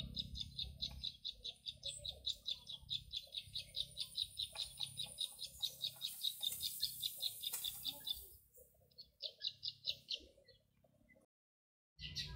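A bird's rapid, evenly repeated high chirps, about six a second, running for about eight seconds, then a shorter run a second later, over a low steady rumble.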